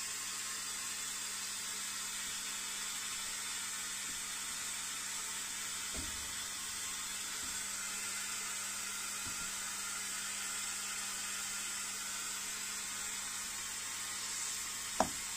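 Steady hiss with a faint low hum from the electrical equipment in a parked electric locomotive's cab, with a single click near the end.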